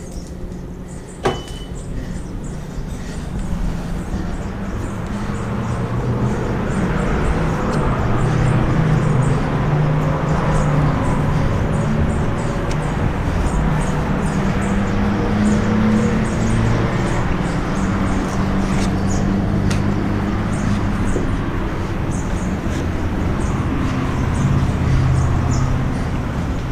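Car engine and road noise while driving, the engine pitch shifting up and down, growing louder over the first several seconds. A sharp click about a second in.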